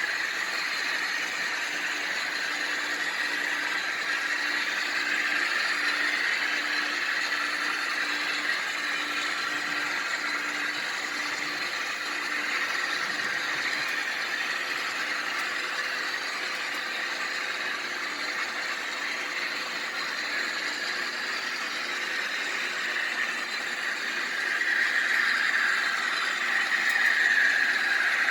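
HO scale model train running along the layout track, a steady mechanical running sound that grows louder in the last few seconds.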